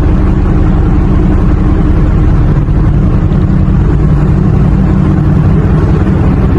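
Car engine running loudly and steadily with a low rumble.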